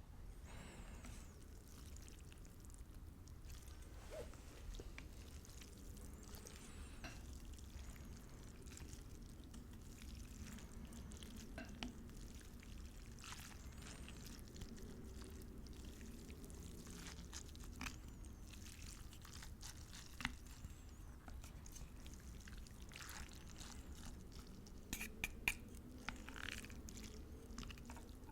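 Close-miked eating of noodles in broth: intermittent wet slurps and mouth sounds with small clicks, and a few sharper clicks near the end.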